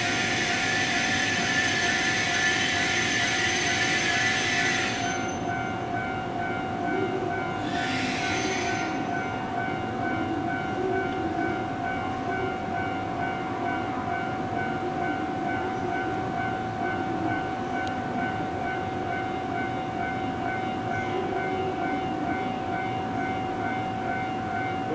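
115 series electric train standing at the platform with a steady, even hum. A loud hiss runs for the first five seconds and stops, and a second, shorter hiss comes about eight seconds in.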